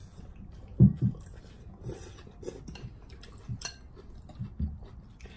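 Spoons and chopsticks clinking and scraping against bowls during a noodle-soup meal, with scattered short clicks and a louder knock about a second in.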